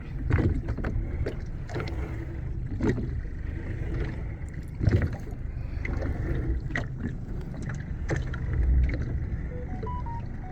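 Small fishing boat at sea: a steady low rumble of engine, water and wind, with scattered knocks and a few heavier thumps from gear handled on deck.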